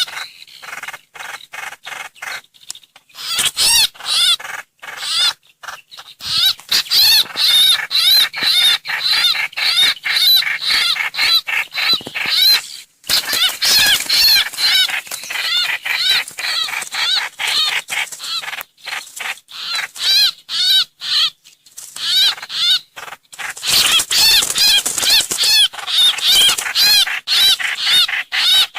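Songbird song of the bird called trao trảo (hoành hoạch) in Vietnamese, looped as a lure recording. It comes as quick runs of repeated, arching notes, broken by brief pauses.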